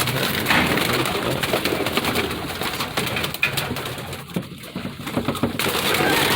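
A flock of pigeons stirred up in their loft, cooing, with a busy flutter and rustle of wings, a little quieter for a moment past the middle.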